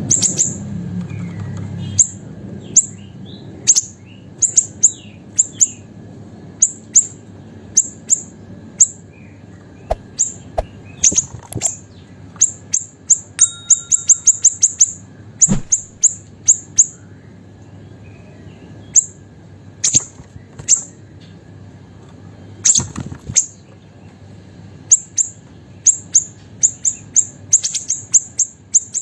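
Small siri-siri songbird calling: short, sharp, very high chips, some single and some in quick runs of several notes. A few faint knocks come between them.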